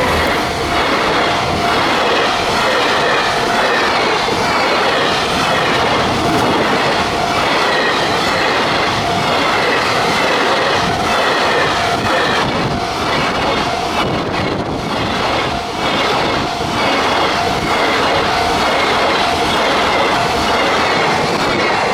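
Freight train hauled by an EF510 electric locomotive running past, its wheels clattering over rail joints in a steady stream. A thin, steady high tone runs through the rumble.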